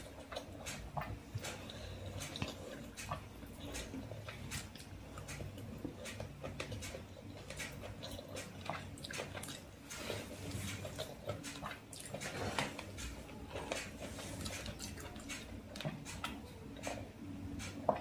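Chewing and mouth smacking while eating rice and chicken curry by hand, with many small wet clicks from the lips and mouth and fingers working the rice on the plate.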